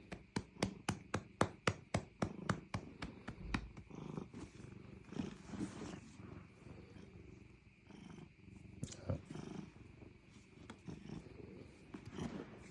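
A hand patting a cat's rump at about four pats a second, stopping about three and a half seconds in. The cat purrs throughout, and the purring carries on alone after the patting stops.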